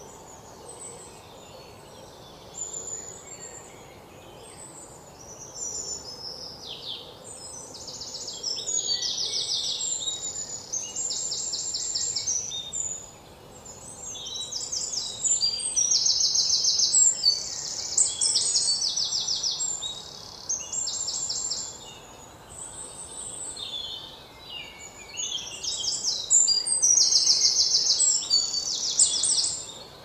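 Songbirds singing in a forest: repeated high phrases of rapid trilled notes and chirps, each a second or two long with short pauses between, over a faint steady background hiss.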